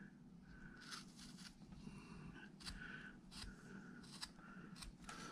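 Faint, short scraping strokes of a carving V-tool cutting into wood, several times over.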